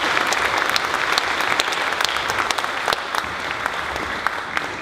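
Audience clapping, many hands at once, slowly tapering off.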